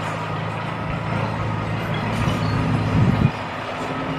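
A bulldozer's diesel engine running steadily under load. It surges louder from about two seconds in, peaks near three seconds, then drops off suddenly and settles into a steady hum.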